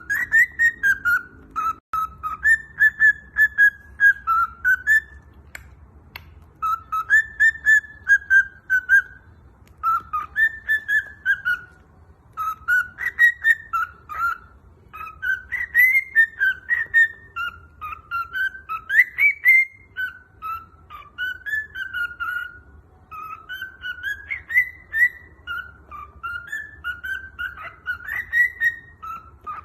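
Cockatiel whistling its song: phrases of quick, warbling whistled notes that bend up and down around one pitch, each phrase a few seconds long, with short breaks between them.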